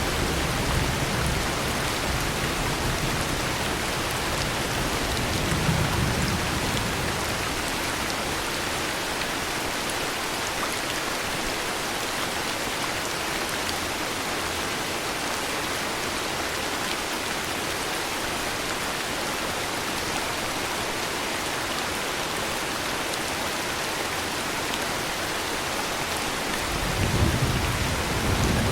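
Steady heavy rain with low thunder rumbles: one fading out at the start, a short one about six seconds in, and a roll building near the end.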